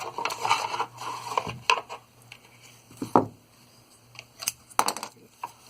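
Scattered small clicks, taps and rustles of hands handling thin wire leads and hard plastic model parts while wiring LEDs, with a few sharper snaps about three and five seconds in.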